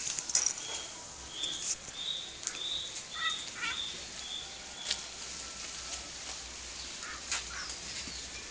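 A small bird chirping: a run of short, high chirps about half a second apart, with a few faint clicks and rustles.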